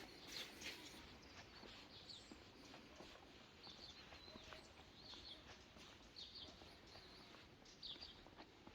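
Faint small-bird chirps, short high calls repeating every second or so against a quiet rural background.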